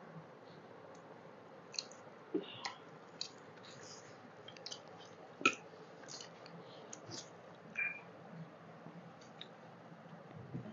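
Two people chewing mouthfuls of rice mixed with chicken curry, close to the microphone, with lip smacks and small wet mouth clicks at irregular moments; the sharpest click comes about five and a half seconds in.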